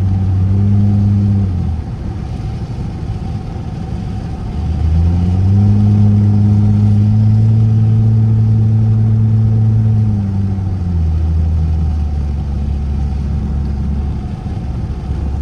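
Straight-piped car exhaust droning under steady throttle. The note drops as the driver lifts off about a second and a half in, rises again on the gas around five seconds in and holds, then drops off again around ten seconds.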